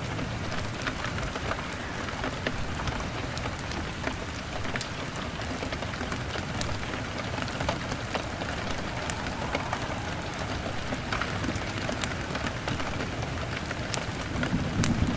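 Steady rain beating on a window, a continuous hiss full of sharp ticks. A low rumble begins near the end.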